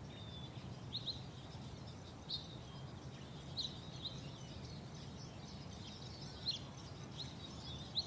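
Faint bird chirps, a dozen or so short high calls at irregular intervals, over a low, steady background hum.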